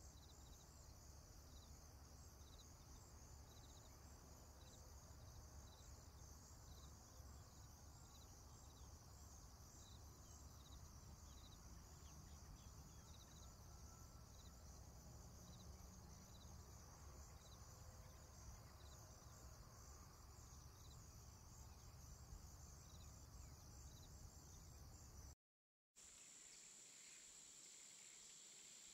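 Faint outdoor ambience: insects chirping about twice a second over a low rumble. It cuts out briefly near the end, then gives way to a steady high-pitched insect drone.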